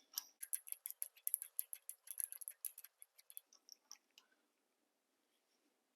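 Ratchet wrench clicking rapidly as the harmonic balancer installer's threaded rod is run into the Chevy 350's crankshaft. The clicking stops about three and a half seconds in, and the rest is near silence.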